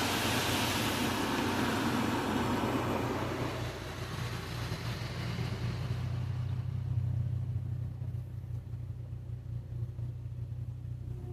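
Rushing hiss of automatic car-wash equipment that fades away over the first six seconds, leaving a steady low hum from the vehicle waiting inside the wash bay.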